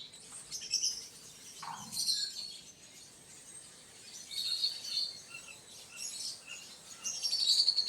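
Small birds chirping in short, scattered high calls.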